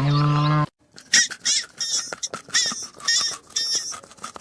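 The end of a goat's bleat, cut off sharply under a second in. After a brief gap comes a run of short, high-pitched chirping animal calls mixed with quick clicks.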